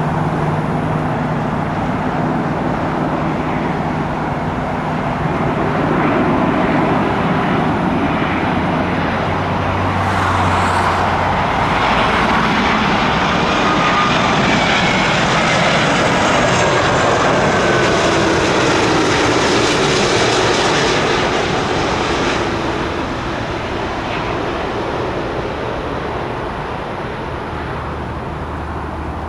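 Jet airliner's engines heard as it passes, the noise swelling about ten seconds in, with a faint falling whine over the rush, then fading off again after about twenty-two seconds.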